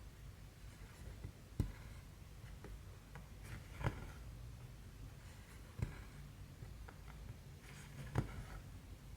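Hand cross-stitching: a needle is pushed through the canvas and the thread drawn through with a soft rustle, with a sharp click at each stitch, four times about two seconds apart.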